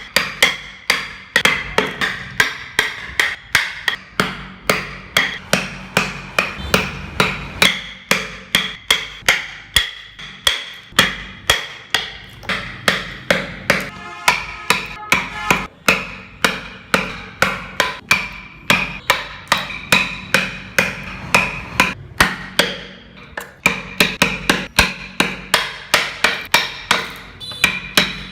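Carving chisel being driven into wood by a mallet, struck steadily about two to three times a second with a short ringing after each blow and a few brief pauses.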